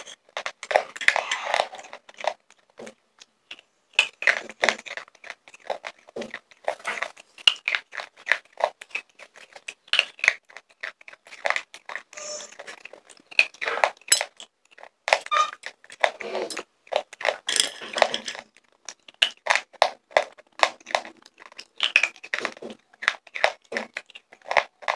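Close-miked crunching and chewing of slate pencils: an irregular run of short, crisp crunches as they are bitten and ground between the teeth.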